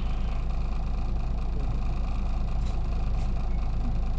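Cabin sound of an Isuzu KK-LR233J1 non-step route bus with its diesel engine running: a steady low drone with road noise, with a couple of faint clicks about two and a half to three seconds in.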